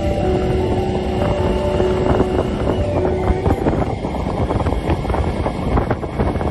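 Steady rushing noise of a waterfall, with background music of long held notes changing pitch every second or two.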